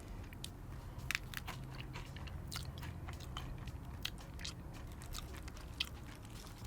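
A person chewing crunchy salted egg cereal fried chicken close to the microphone, with irregular crisp crunches scattered throughout.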